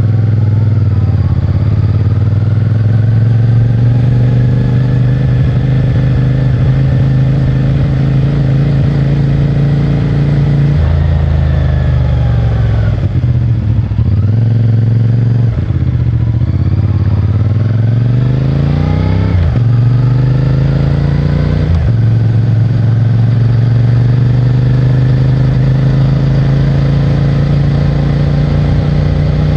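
CFMOTO 450MT's parallel-twin engine and stock exhaust under way. It holds a steady note while cruising, then revs up and shifts up about four times in quick succession, each rise in pitch cut off by a sudden drop, before settling back to a steady cruise.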